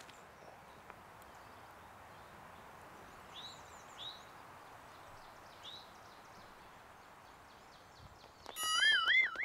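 Songbirds calling over a faint outdoor background: a few short, high, down-slurred chirps a few seconds in, then near the end a sudden loud warbling call whose pitch wavers up and down, mixed with a quick run of clicks.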